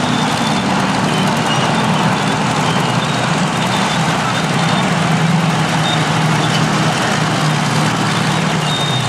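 Heavy diesel earthmoving machinery running: a steady, loud engine drone, with faint short high-pitched tones coming and going.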